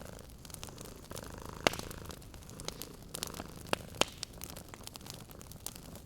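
Wood fire crackling in a fireplace, with sharp pops, the loudest at about one and a half, three and a half and four seconds in, over a cat's steady low purring.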